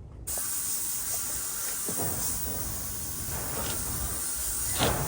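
A steady hiss that starts abruptly just after the start, with a few faint knocks under it.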